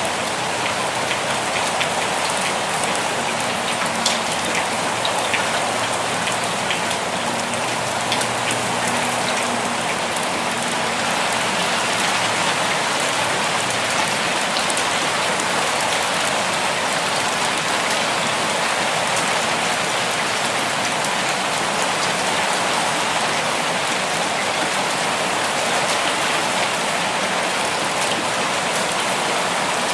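Steady rainfall, a dense even patter of drops on surfaces with occasional distinct drop ticks.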